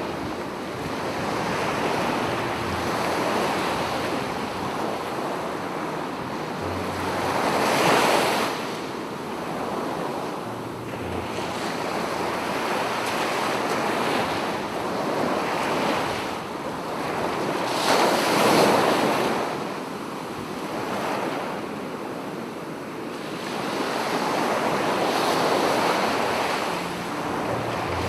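Sea waves breaking on the shore, a steady wash of surf that swells into a loud break about every ten seconds, three times.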